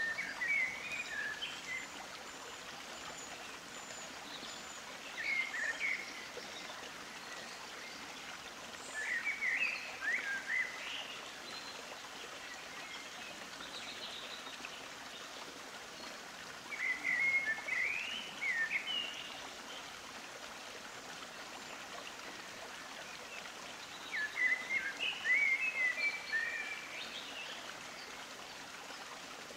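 Small birds chirping in five short bursts a few seconds apart over a steady rushing background noise.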